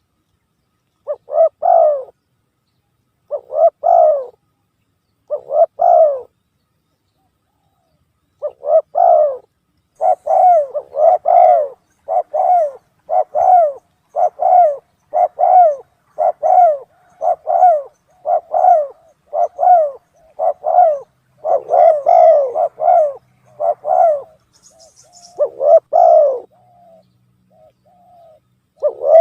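Spotted dove (tekukur) cooing, played as a bird-lure call. There are a few spaced coos, then after a short pause a long quick run of repeated coo notes, then fainter calls near the end.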